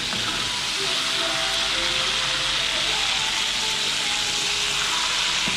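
Flour-coated beef tenderloin pieces deep-frying in bubbling oil in a pan: a steady sizzle.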